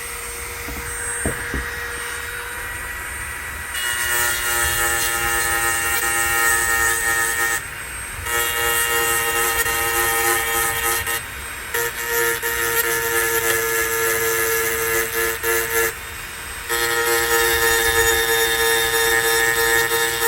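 A small hand-held rotary tool running and grinding hedge trimmer blade teeth. It goes in passes of three to four seconds with short breaks between them, grazing along the existing cutting edge.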